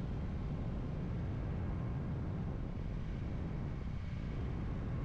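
Steady wind rush and low rumble of a Kawasaki Ninja 400 cruising along a road, heard from the rider's camera with no change in speed.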